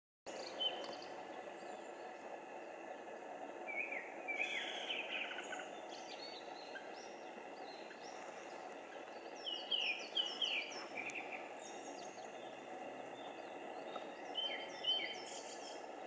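Songbird singing short phrases of quick falling notes, about every five seconds, over a steady background hiss and a faint, even cicada drone.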